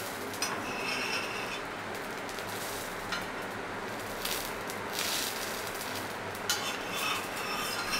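Dosa sizzling on a hot cast iron tawa, with a flat steel spatula scraping and pressing on it now and then.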